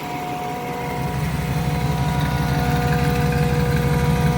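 Rebuilt 5.7 L 350 Vortec V8 with headers, running steadily at idle with an even low pulse that gets louder about a second in. A steady whine runs alongside it.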